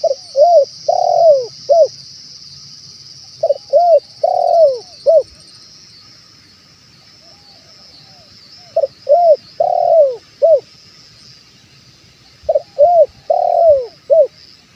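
Spotted dove (tekukur) cooing: four phrases a few seconds apart, each a short run of rounded coo notes with one longer note near the end, played as a lure call for wild doves. A steady high insect hiss runs underneath.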